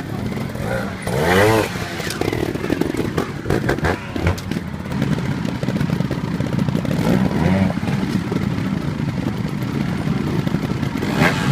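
Trial motorcycle engine running at low revs and blipped in short bursts, with a sharp rev about a second in and more near the end. Knocks and clatter are heard between the revs.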